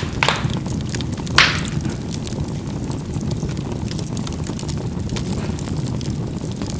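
Charcoal burning in a fireplace: a steady low rush of flame under many small crackles, with two sharp pops of the charcoal near the start, the louder about a second and a half in.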